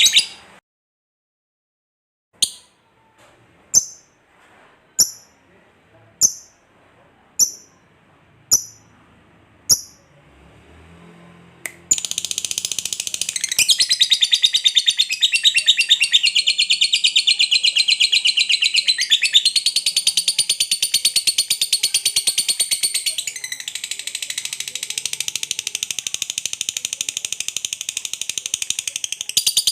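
Lovebird calling: a series of single sharp chirps about a second apart, then, about 12 seconds in, the long rapid chattering trill (ngekek panjang) running on without a break.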